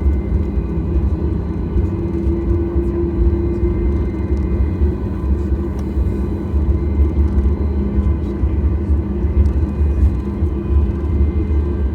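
Cabin sound of a Boeing 737 MAX 8 with its CFM LEAP-1B engines running steadily: a constant low rumble with faint, even whining tones above it.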